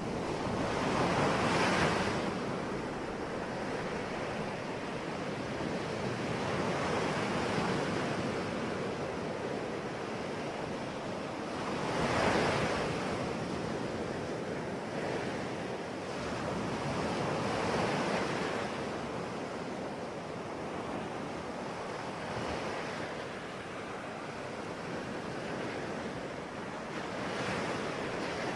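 Sea waves breaking and washing on the shore, a continuous surf hiss that swells every few seconds, with the biggest waves breaking about a second in and about twelve seconds in.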